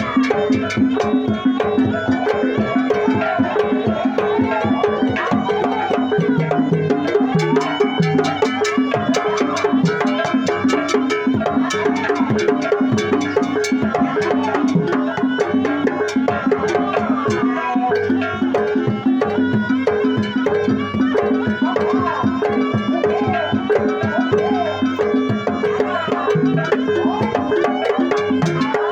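Jaranan ensemble music: fast hand-drum strokes and a repeating pulse of pitched gongs, with a wavering melody line over them.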